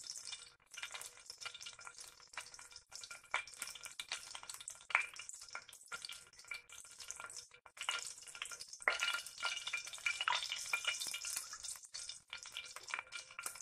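Cumin seeds sizzling and crackling lightly in hot oil in a stainless steel kadai, stirred now and then with a silicone spatula: the cumin being lightly fried as the first tempering step of a curry.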